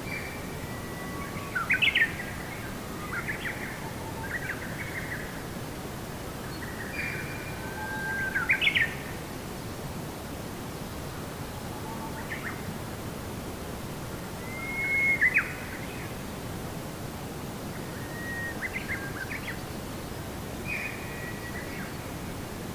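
Birdsong: a songbird repeating short whistled phrases with quick rising and falling notes every few seconds, over a steady background hiss.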